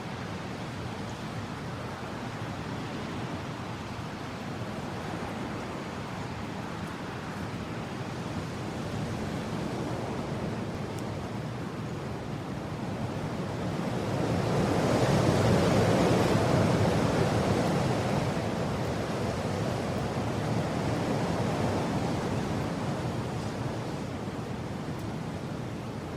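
Mountain wind blowing as a steady rush, swelling into a strong gust about fifteen seconds in, easing, then rising again in a smaller gust a few seconds later.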